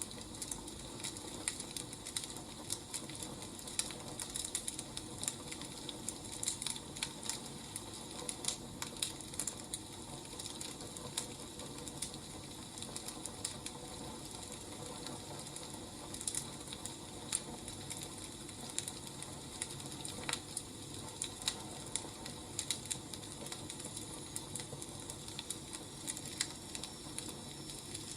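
Wood fire burning: a steady soft hiss with many irregular small crackles and pops.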